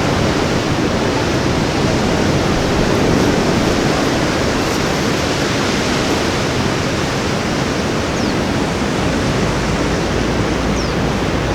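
Ocean surf washing onto a beach: a steady, unbroken hiss of breaking waves. A low rumble comes in near the end.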